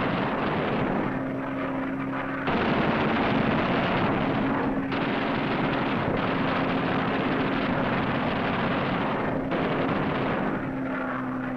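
Fighter plane engine droning steadily, a dense rushing noise with a low held hum that steps up about two and a half seconds in and thins out in the highs about nine and a half seconds in.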